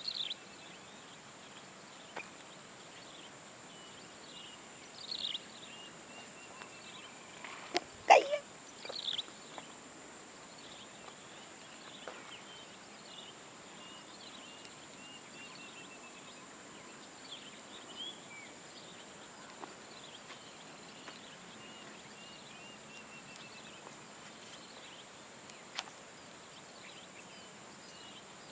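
Birds chirping, with short calls and quick runs of repeated notes, over a steady high-pitched drone. About eight seconds in there is one louder call, lower and falling in pitch.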